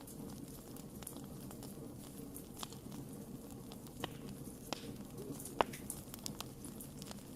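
Wood campfire burning: a low rumble of flames with scattered sharp pops and crackles, the loudest pop about five and a half seconds in.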